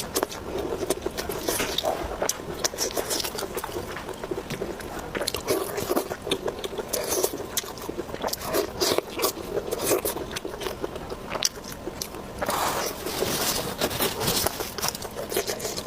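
Close-miked eating sounds: a person biting and chewing food, with crisp crunches and clicks coming in quick succession and a denser run of crunching late on.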